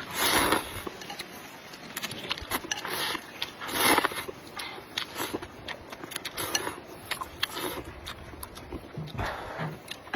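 A person slurping instant noodles in a few loud slurps, about three in all, with small wet chewing clicks in between.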